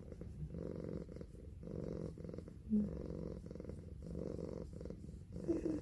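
Domestic cat purring steadily while held on a lap, the purr coming in phases with short breaks about once a second.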